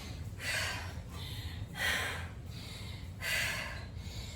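A woman breathing hard, out of breath from exertion: four heavy breaths about a second and a half apart.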